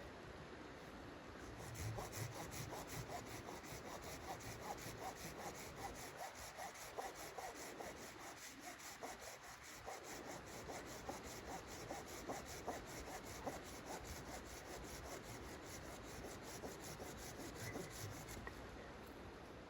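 Hand saw cutting through wood with steady, rapid back-and-forth strokes, starting about two seconds in and stopping near the end.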